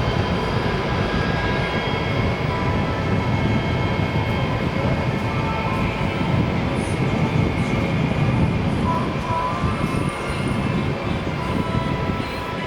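Boeing 747-200 freighter's four jet engines running, a loud steady rumble with a high whine over it.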